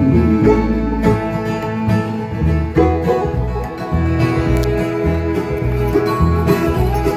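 Live country band playing the instrumental close of a song after the last sung line: guitar and banjo over a steady, pulsing bass.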